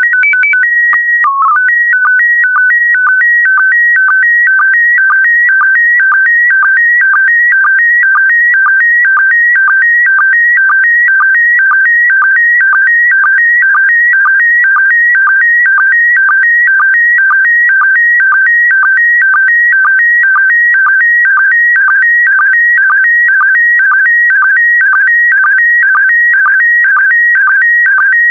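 Slow-scan television (SSTV) signal in PD120 mode. It opens with the header: steady tones near 1.9 kHz with a brief low dip about a second in. Then comes the image data, an even, chirping warble of shifting tones that repeats about twice a second as the picture is sent line by line.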